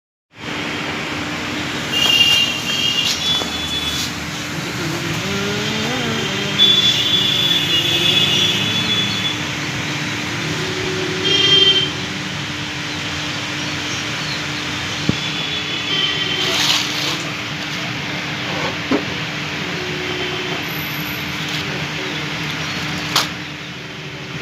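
Mahindra Scorpio S2 engine running steadily at idle with an even hum, and a few brief high chirps and clicks over it.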